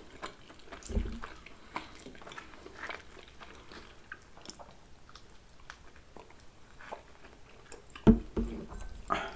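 Close-miked eating sounds of pizza being bitten and chewed: soft wet mouth clicks and crackles, a few louder ones about a second in, with a heavier thump about eight seconds in.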